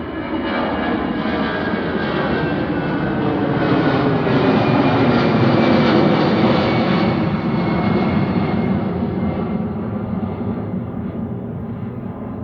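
Jet airliner passing by, its engine noise swelling to a peak about halfway through and then fading, with the pitch dropping as it goes past.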